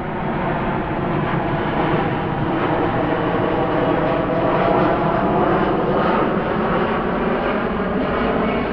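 Twin-engine widebody jet airliner passing close on its landing approach: loud, steady jet engine noise with a hum of many stacked tones.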